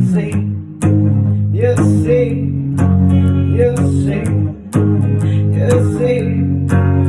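Acoustic guitar strumming chords in an instrumental passage of a song, the chords ringing on with fresh strums about a second in and again past halfway.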